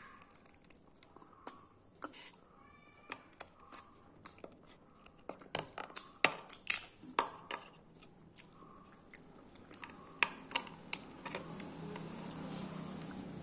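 Close-up eating sounds of a fried green-mussel (kallumakkaya) snack: chewing with sharp mouth clicks and smacks. The clicks come thickest about six to seven seconds in and again around ten seconds in.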